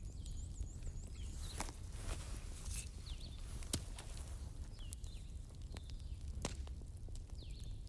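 Wood campfire crackling, with sharp irregular pops over a low steady rumble. Faint short bird chirps sound now and then in the background.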